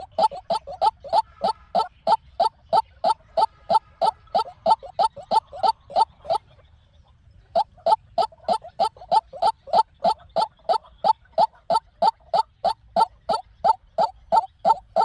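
White-breasted waterhen calling: a fast, even run of short, down-slurred notes, about three to four a second. The run stops for about a second midway, then starts again.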